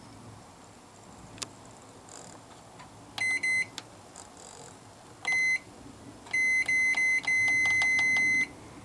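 Microwave oven keypad beeping as its buttons are pressed, short high beeps with clicks in ones and twos, then a longer beep of about a second near the end.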